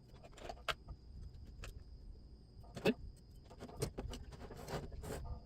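Scattered light clicks and taps of small locomotive parts and tools being handled on a workbench, about six in all, over a low steady hum.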